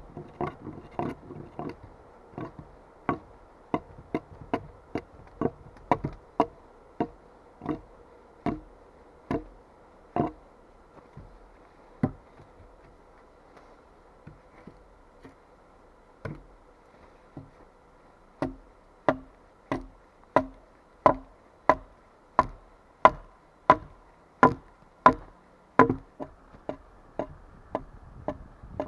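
Repeated sharp blows of a hand tool on wood, such as chopping or hammering. They come about one to two a second, thin out near the middle, then come faster and louder in the second half.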